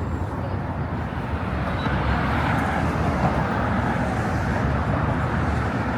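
Steady rumble and hiss of passing road traffic, a little louder from about two seconds in.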